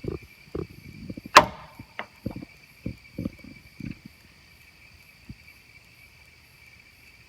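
Steady chorus of night insects such as crickets, with a string of short knocks and thumps over the first four seconds. The loudest is one sharp crack about a second and a half in.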